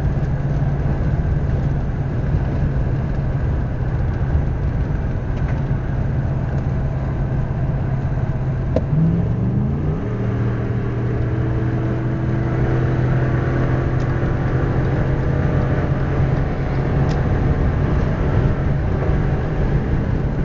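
Ford F-150 pickup driving along, heard from inside the cab: a steady engine hum over road and tyre noise. About nine seconds in, the engine note briefly rises and drops back, then holds steady again.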